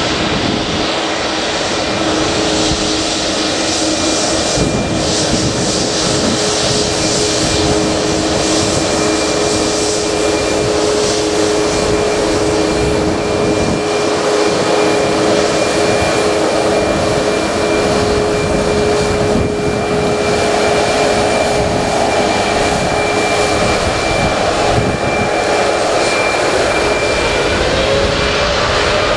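Jet engines of an Air Canada Boeing 787-9 running steadily: a loud, continuous rush with steady whining tones. Near the end one tone begins to rise as the engines spool up.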